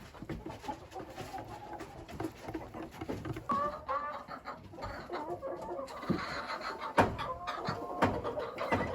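Chickens clucking in short calls, with scattered taps and one sharp knock about seven seconds in.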